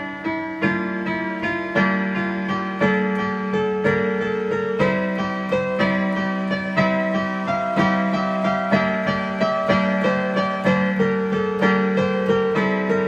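Instrumental keyboard music with a piano sound: a melody of struck notes moving over a steadily held low note.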